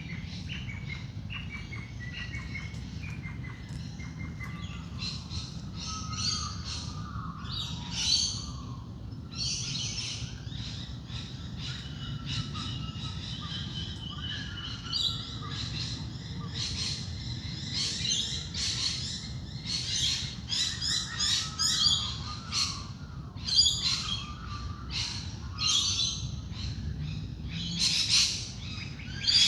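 Dawn chorus of many wild birds chirping and calling over one another, with the calls growing busier and louder in the second half, over a steady low rumble.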